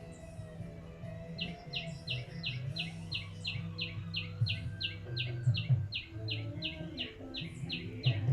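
Oriental magpie-robin (kacer) calling a rapid run of sharp, evenly repeated chirps, about four a second, starting about a second and a half in, over a low steady hum.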